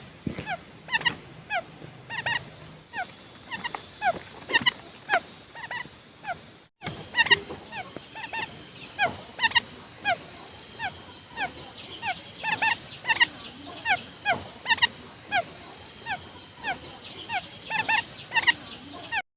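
Quail calling: a stream of short, high notes, each sliding quickly down in pitch, repeated a few times a second, as used for a quail decoy lure. The sound drops out briefly about seven seconds in, then the calls resume.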